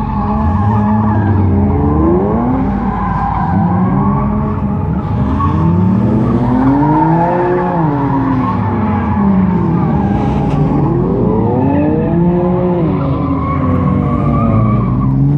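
Car engine revving up and dropping again and again while its tires squeal and skid, as in a burnout.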